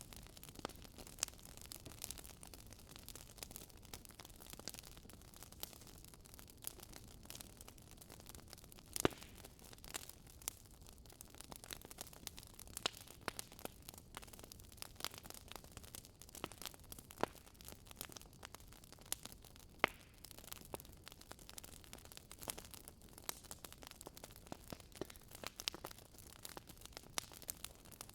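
Wood fire crackling, with a soft steady hiss under frequent irregular pops and snaps. Two louder snaps come about nine seconds in and again about twenty seconds in.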